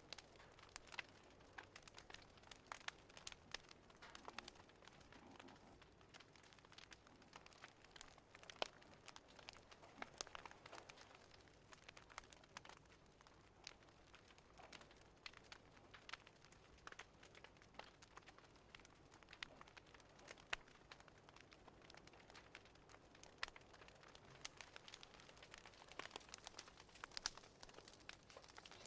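Faint wood fire crackling in a fireplace: irregular sharp pops and snaps, some louder than others, over a soft steady hiss.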